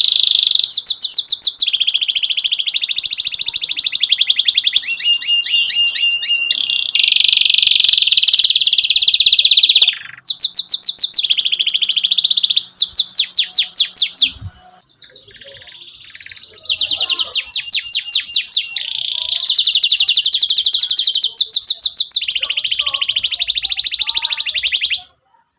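Domestic canary singing long, rapid trills, runs of fast repeated high notes strung one after another. There is a brief quieter break about two-thirds of the way through, and the song stops abruptly near the end.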